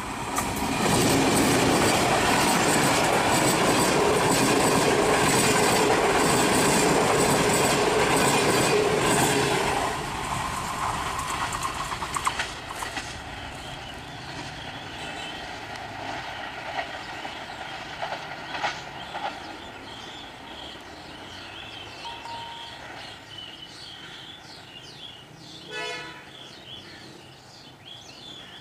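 A diesel locomotive passes close by, sounding a long steady horn blast of about nine seconds over its engine and wheel noise. The horn stops abruptly. Then the train's wheels click over the rail joints as it rolls away, fading.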